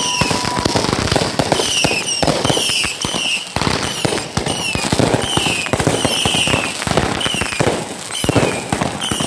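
Fireworks going off in a dense, continuous barrage of bangs and crackles. Short falling whistles come over and over, about one a second.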